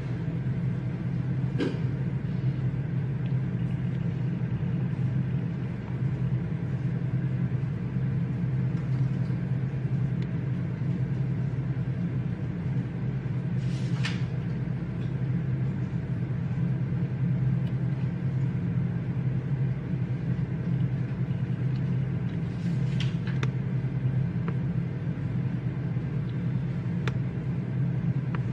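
Library reading-room background: a steady low hum, with a few sharp taps and clicks now and then.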